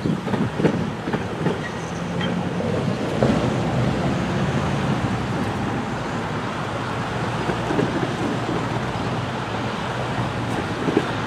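Steady rumble of a freight train moving away from the grade crossing, with cars driving across the tracks and a few sharp knocks.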